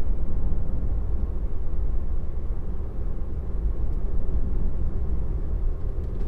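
Steady low road and tyre rumble heard inside the cabin of a moving Tesla electric car.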